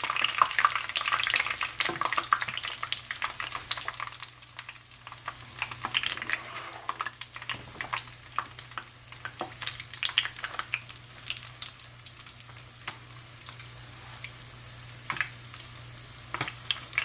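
Wontons deep-frying in hot oil in a frying pan, a steady sizzle with dense crackling and popping. It is louder for about the first four seconds, then settles to a quieter crackle.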